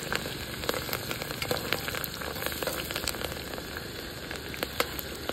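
Garlic and onion frying in hot oil in a pressure cooker: a steady sizzle with frequent small pops and crackles.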